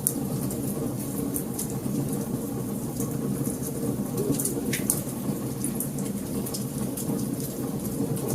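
Burning wood crackling: a steady low rumble of flame with scattered sharp pops and snaps, one stronger snap a little past halfway.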